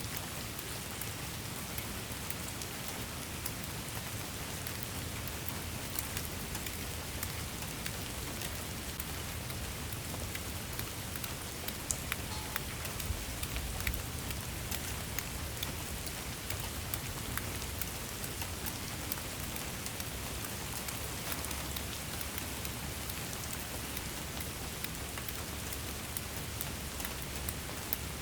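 Steady rain falling on a surface, a constant hiss with the ticks of individual drops and a low rumble underneath.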